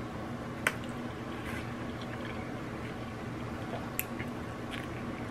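A person biting into and chewing sauced barbecue ribs, with a sharp click a little under a second in and another about four seconds in, over a steady low hum.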